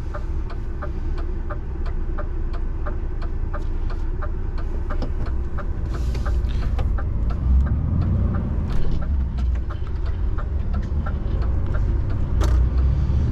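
DAF truck's diesel engine running steadily, a low rumble heard from inside the cab, with a regular light ticking, about two to three ticks a second, over it.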